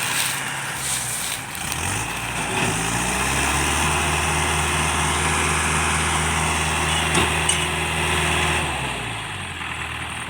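Diesel engine revving up about two seconds in, held at high revs for several seconds, then easing back down near the end.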